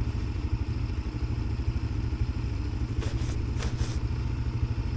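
Yuki Tract 200 ATV engine running at a steady idle, a low, even rumble with no revving. A couple of brief scratchy noises come about three seconds in.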